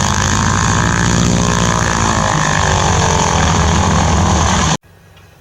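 Hawker Hurricane's Rolls-Royce Merlin V12 aero engine running steadily and loud with its propeller turning. It cuts off suddenly near the end.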